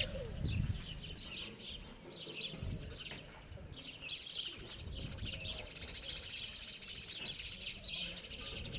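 Small birds chirping: many short, high calls that thicken into a dense chatter over the second half.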